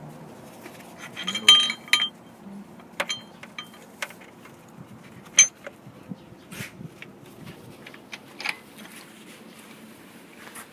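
Steel hand tools clinking and tapping against metal engine parts while a 1/2-inch extension is worked on the camshafts of an Audi 2.4 V6 engine. A cluster of sharp ringing clinks comes about a second and a half in, the loudest single clink about five seconds in and another near the end, with lighter taps between.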